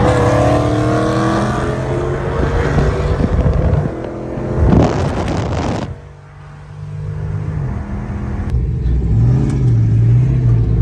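Car engines accelerating hard, their pitch climbing over the first few seconds, with a loud burst about five seconds in. Near the end a lower engine note swings up and down as it is revved.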